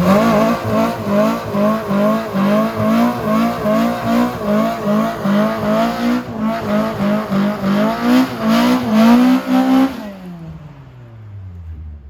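Car engine revved hard and held at high revs, its note wavering about twice a second. About ten seconds in the throttle is released and the revs fall away steadily.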